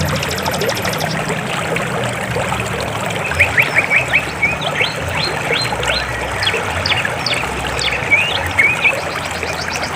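River water flowing steadily, with birds calling over it in quick, short chirps from about three seconds in. A fast, high trill sounds during the first second.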